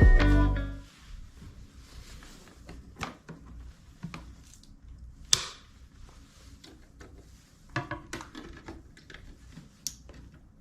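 Background music fades out within the first second. Then quiet room sound with scattered light clicks and knocks of small objects being handled, the sharpest just after five seconds.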